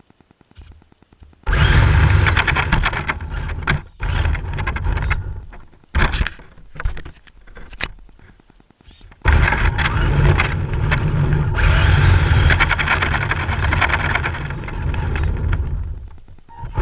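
RC drift car driving in spurts, a rough scraping and rumbling noise that comes in several long bursts with short quiet gaps between.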